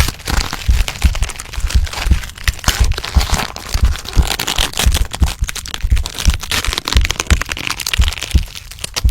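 Transformation sound effect: a dense, unbroken run of sharp cracks and crunches over repeated low thuds, the kind of sound used for bones cracking and a body reshaping.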